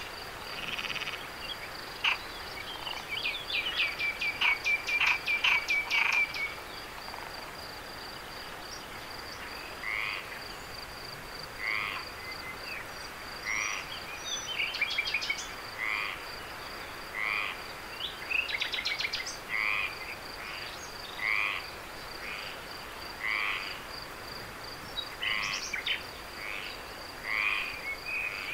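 Frogs calling: a fast run of croaking pulses about two seconds in that lasts around four seconds, then single short calls repeating roughly every two seconds. A steady high-pitched insect trill runs underneath.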